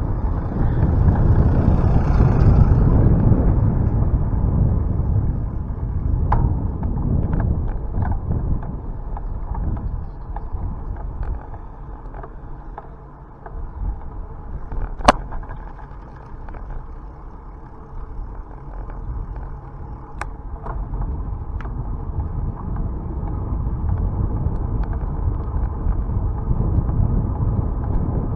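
Wind buffeting a camera microphone on a moving bicycle, a muffled rumble that swells and fades, loudest in the first few seconds. A few sharp clicks or knocks from the bike cut through it, the sharpest about halfway.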